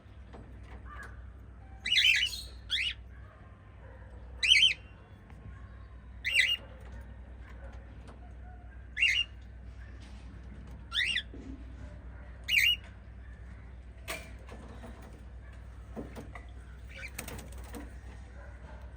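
Pet cockatiels giving single short, loud chirping calls, about seven of them one to two seconds apart, followed by fainter sounds. A steady low hum runs underneath.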